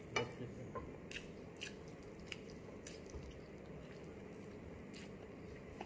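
A person chewing food, with a few faint, short clicks scattered through.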